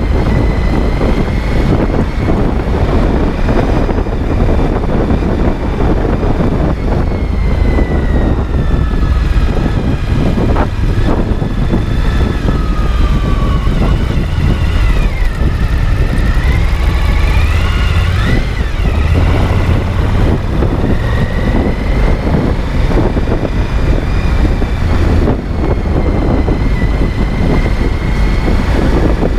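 Suzuki V-Strom 1050XT's V-twin engine running under way, with a steady low rumble and a whine whose pitch falls midway through, then climbs back as the revs change.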